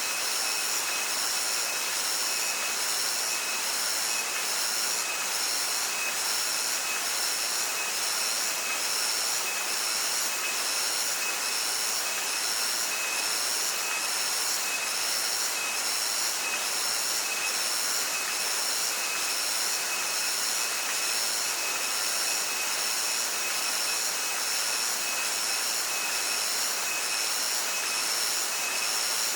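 Steady rush of stream water, with cicadas singing over it in an even, high-pitched pulsing rhythm.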